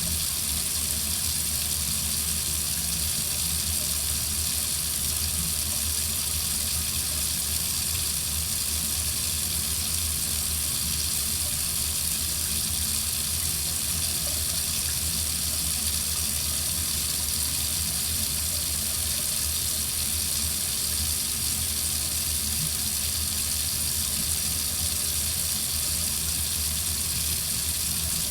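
Water running steadily from a faucet into a sink: an even, unbroken hiss that does not change.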